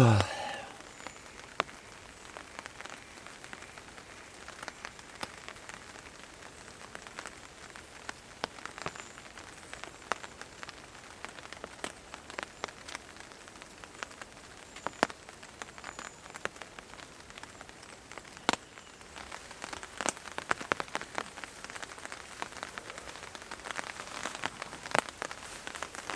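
Light rain dripping onto a tarp: scattered, irregular drop taps over a faint hiss, growing denser over the last several seconds. A brief loud swooping sound comes right at the start.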